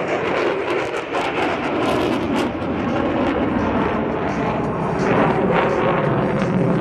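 Loud, steady jet noise with a crackle from an F-35A Lightning II's single Pratt & Whitney F135 afterburning turbofan as the fighter flies its demonstration.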